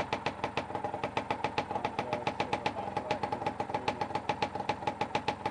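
Rebuilt two-stroke engine idling steadily, with an even popping beat of about eight firing pulses a second.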